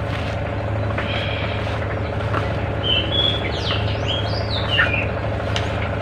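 Small birds chirping and whistling in a short run of high notes about halfway through, over a steady low hum.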